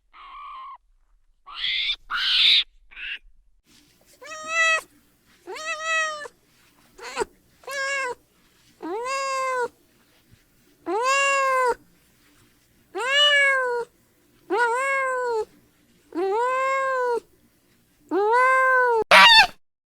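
A cat meowing over and over: about ten drawn-out meows, each rising then falling in pitch, a second or two apart. A few short rough calls come before them in the first seconds.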